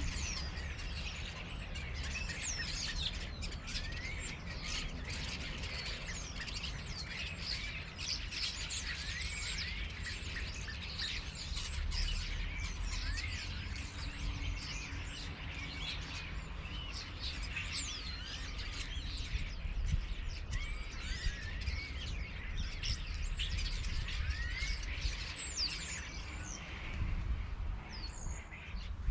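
Many birds chirping and calling over one another in short, quick whistles and glides, with a low steady rumble underneath.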